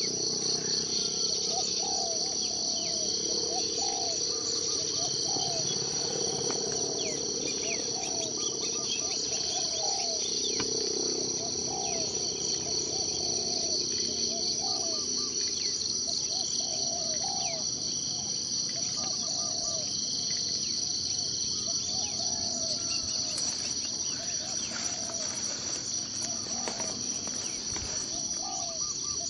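Steady, high-pitched chorus of insects such as crickets, trilling without a break, with short low calls repeating about once a second and scattered bird chirps over it.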